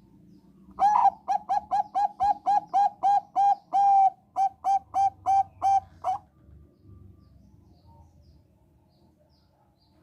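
Zebra dove (Thai 'Bangkok' perkutut) singing one phrase: a quick run of about twenty short coo notes at a steady pitch, one a little longer partway through. The phrase lasts about five seconds and then stops.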